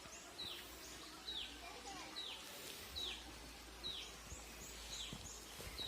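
A bird repeating a short, high, falling call about once a second, faint against quiet outdoor background noise.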